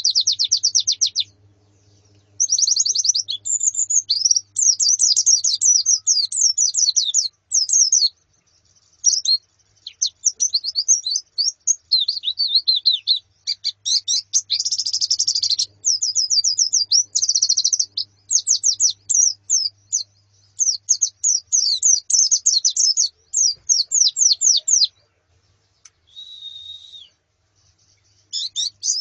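A flock of white-eyes (pleci) twittering: rapid bursts of quick, high chirping notes, often overlapping, broken by short pauses, with a brief lower buzzy call near the end.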